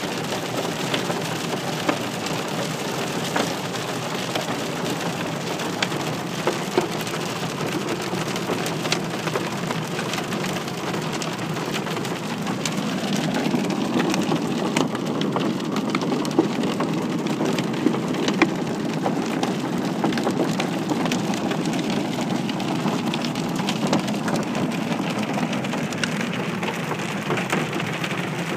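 Heavy rain pelting the roof and windows of a car, heard from inside the cabin, a dense steady patter dotted with sharp ticks of single hits. About halfway through, a low rumble of thunder swells up and lingers for several seconds.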